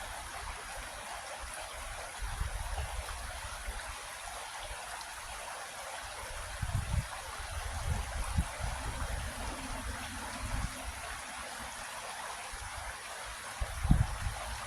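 Creek water flowing and trickling steadily, with a few short low rumbles, the strongest near the end.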